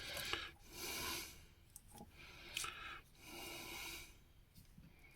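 Faint, slow breathing of a man close to the microphone: two soft breaths about two and a half seconds apart.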